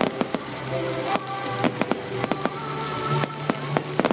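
Fireworks display: irregular sharp bangs and crackles from bursting shells, over music with long held notes.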